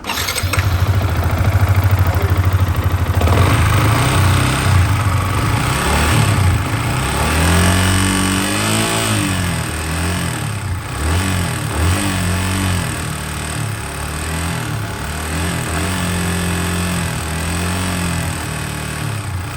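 Yamaha R15 V3's 155 cc single-cylinder engine starting and idling, then revved up and down repeatedly from about seven seconds in. Its chattering 'chichichi' tick, loudest below about 6000 rpm before the VVA switches over, is taken by the mechanic for excess valve clearance.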